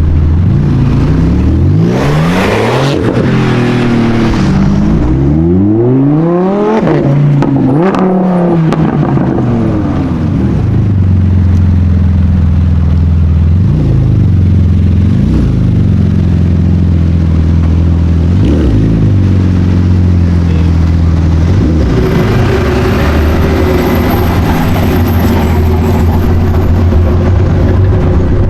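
High-performance car engine revved several times, its pitch sweeping up and falling back, then running at a steady low drone broken by a few short throttle blips.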